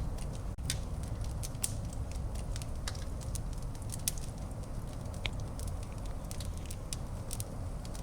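Wood fire burning in a fireplace: a steady low rumble of flames with irregular sharp crackles and pops, one or two a second.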